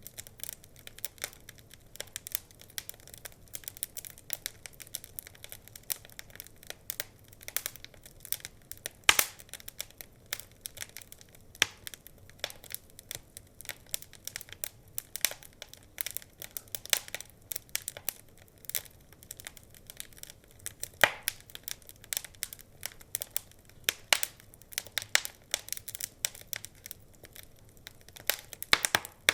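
Wood fire crackling: irregular sharp snaps and pops over a faint steady hiss, with a few louder pops.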